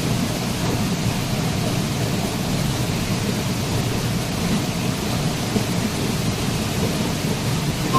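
Waterfall: a steady, unbroken rush of falling water, deepest and strongest in a low rumble with a hiss above it.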